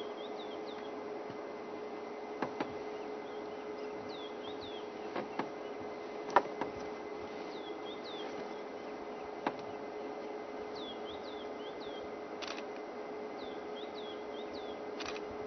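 A bird calling in short, high, falling chirps, three or four at a time, every few seconds, over a steady low hum. A few sharp clicks are heard, the loudest about six seconds in.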